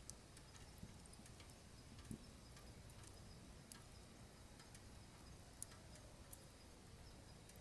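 Wood fire burning in a wood stove, crackling faintly: a few sharp, irregular pops over a low rumble of the flames.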